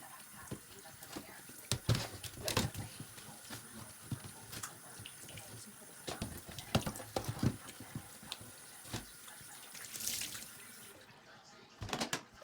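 Kitchen tap running into a sink while hard items knock and clatter against it at irregular moments, as in washing. The running water stops about 11 seconds in, followed by a few more knocks.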